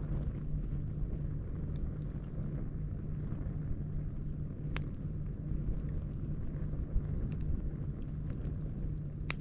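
Campfire crackling, with a few sharp pops, one about five seconds in and another near the end, over a steady low rumble.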